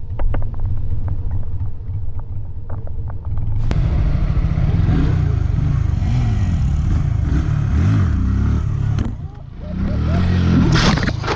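Motorcycle engine running under heavy low wind rumble on the microphone. About four seconds in the sound changes abruptly to a wider rushing noise, with the engine pitch rising and falling.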